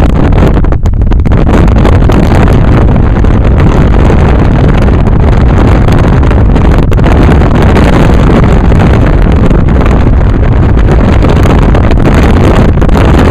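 Heavy wind buffeting the camera's microphone at an open car window while driving, a loud steady rumbling roar with road noise under it.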